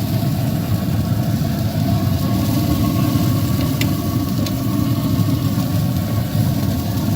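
An engine idling steadily: a dense, loud low rumble with a faint steady hum above it.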